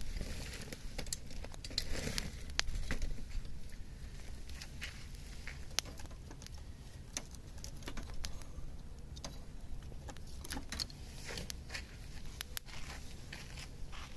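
Wood campfire crackling, with sharp, irregular pops and snaps.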